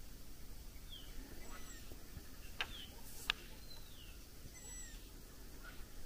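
Wild birds calling: short down-slurred whistles repeat every second or two, with a few higher, ringing calls among them. Two sharp clicks come about halfway through.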